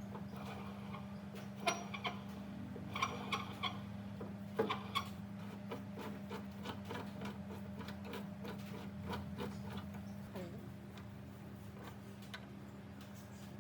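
Light clicks and taps of small metal parts and tools being handled, over a steady low hum. The taps are louder and scattered at first, then turn into a run of quicker, lighter ticks.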